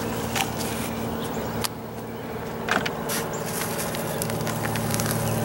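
Hands digging sweet potatoes out of loose soil, with scattered rustles and light knocks. A steady low machine hum runs underneath throughout.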